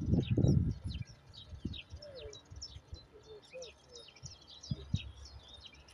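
Small songbirds chirping and singing, many short high calls throughout. A brief low rumble in the first second is the loudest sound.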